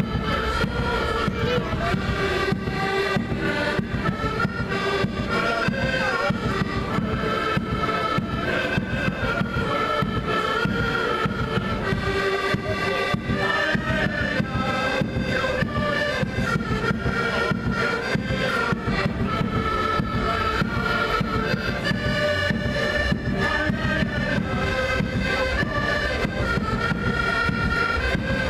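Live folk music: a wind-instrument melody played over steady, dense drumming.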